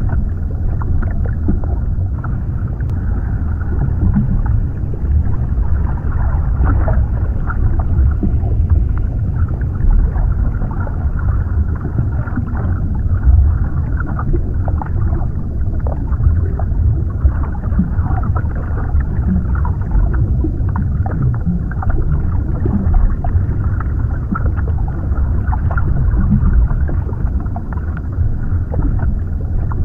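Underwater ambience: a steady, muffled low rumble, with small irregular pops and crackles scattered over it.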